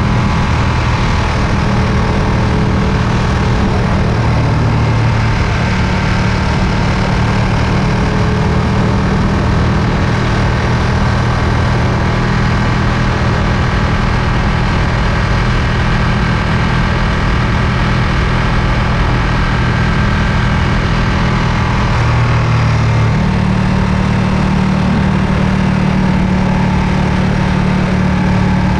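Ducati Panigale V2's V-twin engine running at a steady pace, its pitch dropping slightly about four seconds in and rising again a little past twenty seconds.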